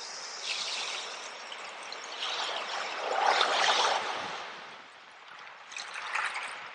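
Sea water washing and swirling, swelling to its loudest about halfway through and again briefly near the end.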